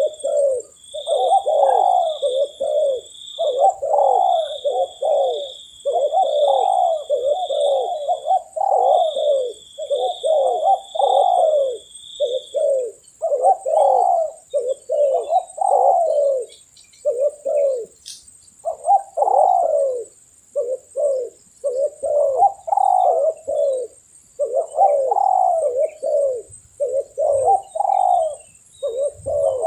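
Spotted doves cooing: phrase after phrase of low coos with short gaps between them. A pulsed high chirping runs through the first twelve seconds or so, and a steady high whine sounds throughout.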